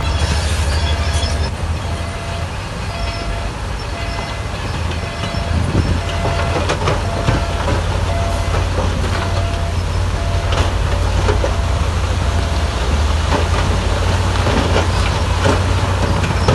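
Heavy bulldozer working: a diesel engine running with a deep steady rumble while steel crawler tracks clank and rattle. A short high beep repeats about twice a second through most of it, then stops near the end.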